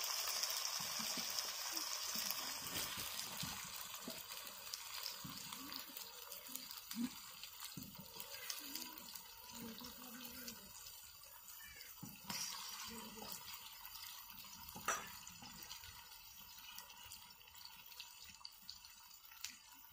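Onion-and-spice masala frying in mustard oil in a large aluminium kadai, sizzling steadily. The sizzle fades as raw chicken pieces go into the pan, and there are a few soft knocks.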